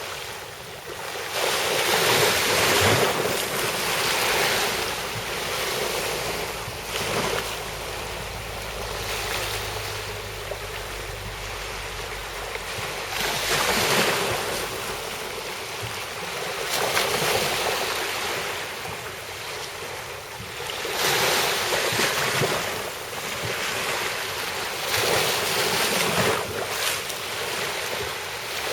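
Sea waves washing ashore, swelling in about six surges a few seconds apart.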